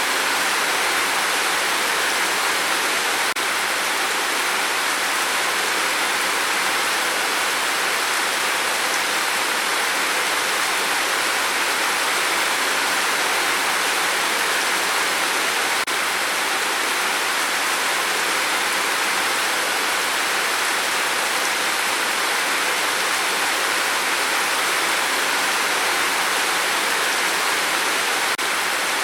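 Steady heavy rain, an even rushing hiss with no separate drops standing out.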